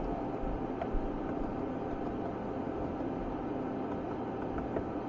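Steady low hum and hiss of background room noise, with a couple of faint clicks.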